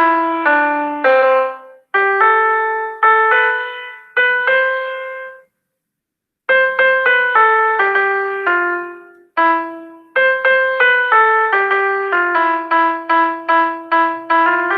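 A simple keyboard melody in separate, decaying notes from a student's Soundtrap project, played as a piano-like synth. It breaks off for about a second near the middle, then comes back with quicker notes.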